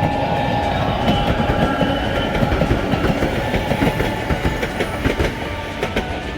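Small 762 mm narrow-gauge electric train of the Sangi Railway Hokusei Line running, wheels rumbling and clattering over the rail joints in an uneven run of knocks.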